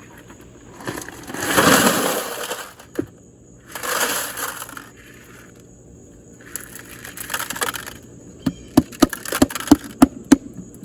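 Rocks tipped into a foil tray, rattling and clattering in three spells, then a quick run of sharp clacks as stones knock against each other while being set in place near the end.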